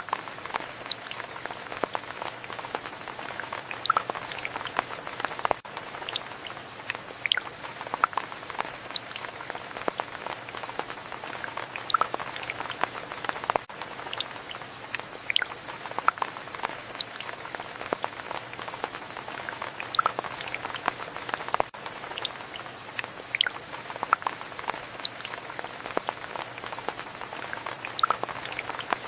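Rain falling, a steady hiss with many separate drops ticking close by. The same stretch of drops repeats about every eight seconds.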